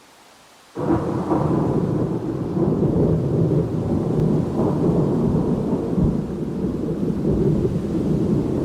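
Thunder rolling in a thunderstorm: after a faint hiss it breaks in suddenly about a second in and keeps up a loud, deep rumble, with rain underneath.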